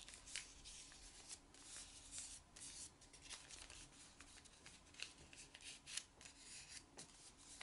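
Faint rustling and crinkling of a sheet of paper being folded in half and creased by hand, a scatter of small irregular crackles.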